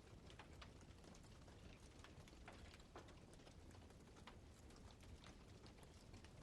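Faint crackling of a burning wood fire: irregular small pops and snaps, several a second, over a low steady hiss.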